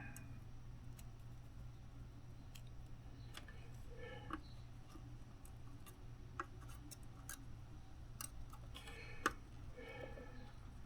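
Faint scattered clicks and light taps of small tools handled at a workbench during circuit-board soldering, over a steady low hum.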